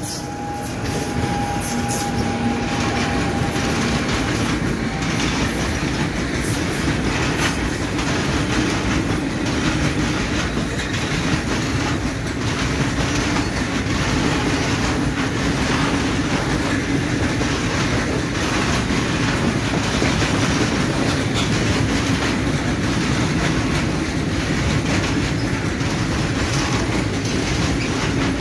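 A Siemens Vectron electric locomotive passing, with a faint steady whine near the start, followed by a long train of open coal wagons rolling by. The wheels make a steady rumble on the rails, with repeated clicks over the rail joints.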